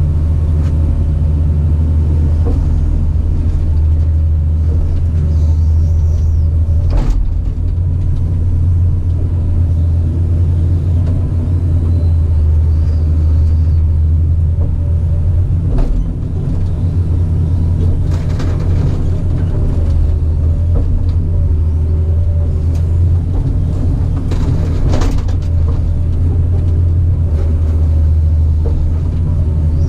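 Caterpillar 973C track loader's diesel engine running steadily under work, with a few sharp knocks over the rumble about a quarter, half and four-fifths of the way through.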